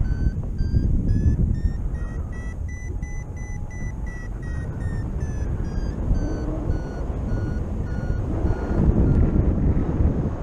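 Paragliding variometer beeping over wind rush on the microphone. The beeps climb in pitch and quicken in the first few seconds, then drop in pitch and slow, and stop shortly before the end. This is the sign of the glider climbing in a weak thermal and the lift fading.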